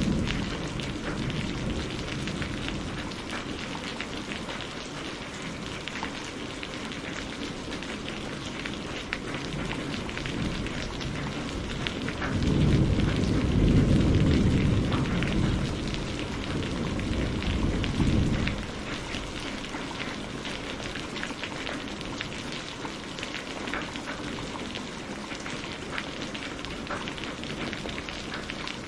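Heavy rain on a glass window: a steady wash with many separate drops ticking. Roughly twelve seconds in, a low roll of thunder swells up and rumbles for about six seconds before fading back into the rain.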